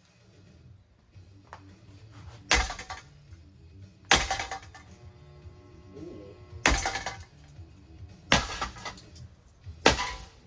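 A ceiling fan being smashed: five sharp crashes with breaking and rattling debris, coming about every one and a half to two and a half seconds.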